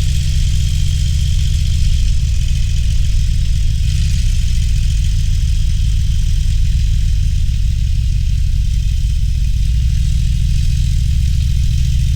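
Harley-Davidson Roadster's air-cooled V-twin running steadily at low revs, its deep pulsing exhaust note held without revving up or down, with a steady hiss of wind and road noise above it.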